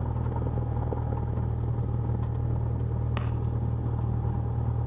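Cessna 172's engine and propeller running steadily at low taxi power, a constant low drone heard from inside the cockpit. One short click comes about three seconds in.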